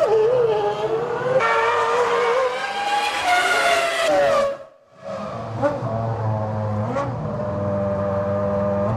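Formula One cars' 3.0-litre V10 engines at high revs: one wavers in pitch and then climbs steadily, the sound cuts out abruptly about halfway, and another engine follows at a steadier pitch with a deep rumble underneath.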